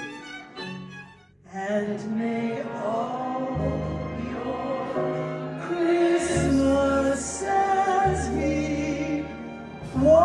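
Symphony orchestra playing holiday music. A few short, separate notes give way to a brief pause about a second and a half in, then sustained full chords over a bass line. A louder chord enters near the end.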